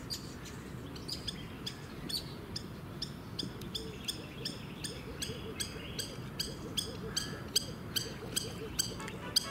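A bird calling in a series of short, high, falling notes, scattered at first, then settling into a steady run of about three a second from a few seconds in.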